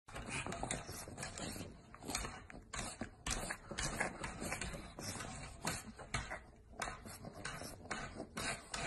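Pug snuffling and huffing through its nose in short, irregular breaths, about two or three a second.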